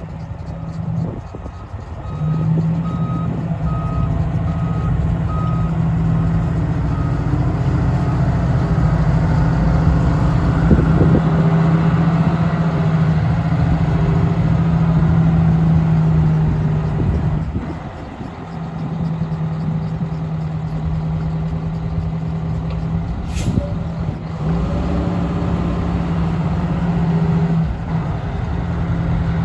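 1998 Pierce fire truck's diesel engine running steadily, its drone dropping off briefly twice. A backup alarm beeps about six times, once a second, in the first few seconds, and there is one short hiss late on.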